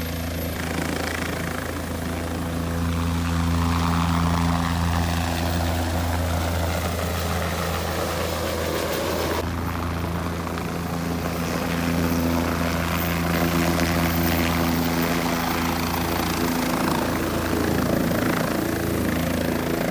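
Helicopter running close by: a loud, steady low rotor and engine drone. About nine and a half seconds in, the upper part of the sound changes suddenly.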